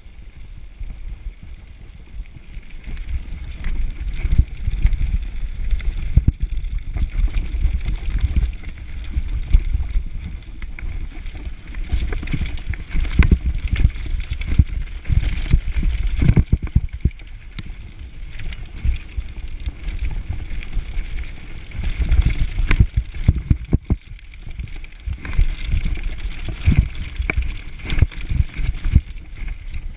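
Mountain bike descending a downhill trail: tyres rumbling over dirt, with frequent rattling clicks and knocks from the bike as it rides over bumps and wind buffeting the microphone.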